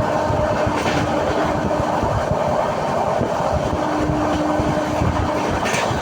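Passenger train running along the track, heard from inside the coach: a steady rumble of wheels and carriage, with a faint hum that comes and goes and a short hiss near the end.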